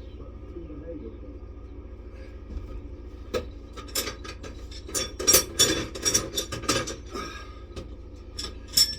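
Metal parts of a Tyron band removal tool clinking and rattling as they are handled and a large wing nut is run onto its threaded bar. The sharp clinks come in a quick cluster from about a third of the way in, with one more near the end, over a steady low hum.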